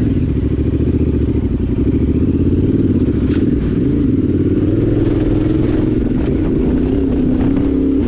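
Yamaha Ténéré 700's parallel-twin engine running at steady revs while the motorcycle is ridden.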